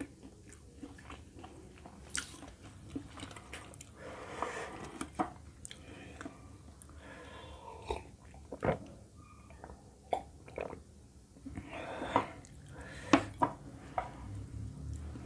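Close-up chewing of a hand-fed mouthful of rice and chicken curry: irregular wet mouth sounds with scattered sharp clicks.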